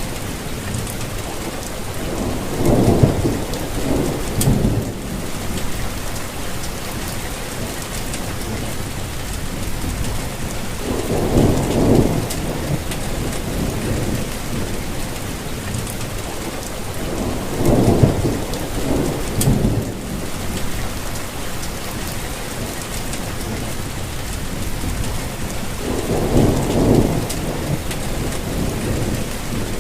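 Steady rain falling, with a low rumble of thunder swelling up four times, about every seven or eight seconds.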